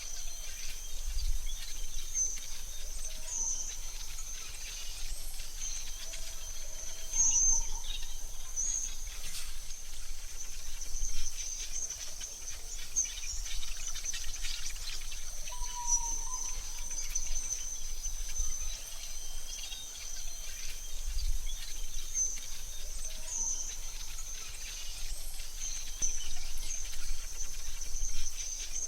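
AI-generated forest ambience: a steady high insect drone, with occasional faint bird chirps and one short whistled bird note about halfway through.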